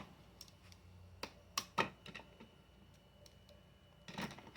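A handful of scattered light clicks and taps, as of hard plastic parts being handled, over quiet room tone.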